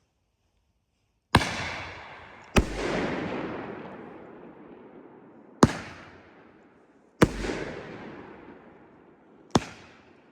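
30 mm firework bomb tube going off: five sharp bangs at uneven gaps, each followed by a long rolling echo that dies away over a second or two.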